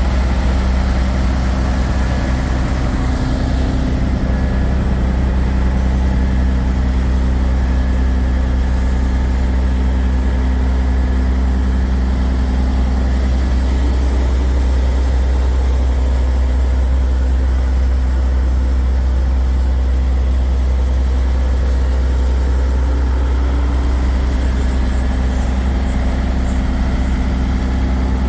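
Diesel semi-truck engines idling: a steady, unchanging low rumble.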